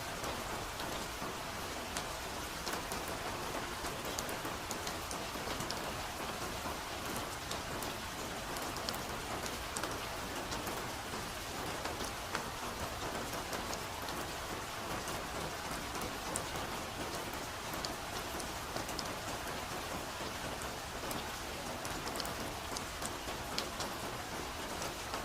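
Steady soft rain falling in a forest, an even hiss of rain with many small drops pattering on leaves and ground.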